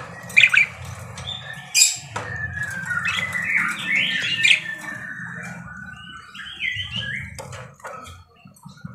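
Pet budgerigar (parakeet) chattering: a run of squawks, chirps and warbling calls, busiest in the first half, over a steady low hum.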